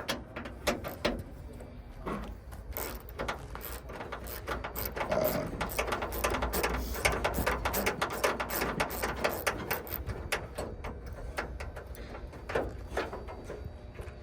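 Rapid, irregular metallic clicking and rattling, busiest midway, from working the side door's handle and lock mechanism loose inside a Chevy Express van door.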